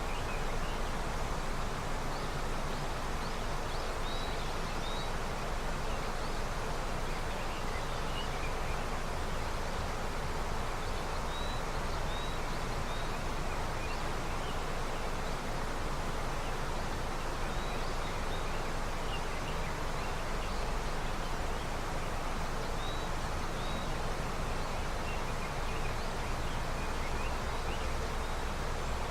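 River running with snowmelt, a steady rushing of water. Over it a bird gives short high chirps, usually two together, every few seconds.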